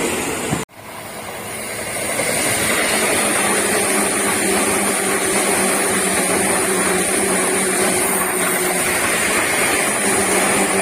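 Electric commuter train of the Seibu Ikebukuro Line passing close by at a level crossing, a steady loud rush of running and rail noise with a few held tones in it. There is an abrupt cut about a second in, after which the passing noise resumes and builds.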